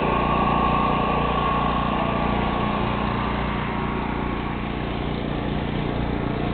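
Vehicle engine running steadily, with a high whine that fades out about halfway through.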